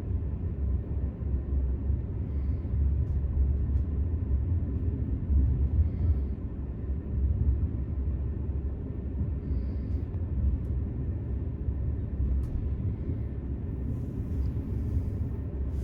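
Steady low rumble of a VR Intercity train running along the track, heard from on board the carriage.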